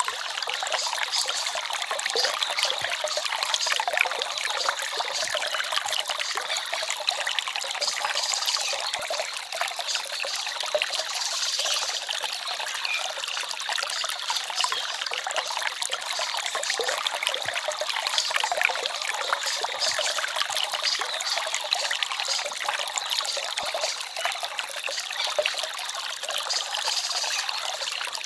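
Small forest stream trickling and babbling steadily, an even rush of water with no break.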